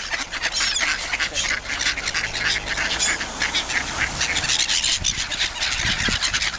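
A flock of hungry ducks quacking and calling over one another in a dense, unbroken clamour.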